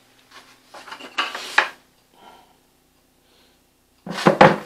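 Buckets of sweet potatoes being handled and swapped on a scale: the potatoes shift and knock, and the bucket scrapes. There are short scuffs in the first second or so and a louder clatter near the end.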